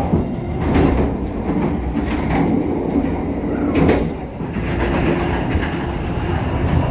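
Argo Wilis passenger train running at speed: a steady rumble of wheels on the rails, with a few sharp clacks as the wheels pass over track joints.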